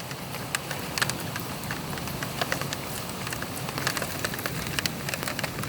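Heavy rain falling steadily during a thunderstorm, with a constant hiss and frequent sharp drop ticks.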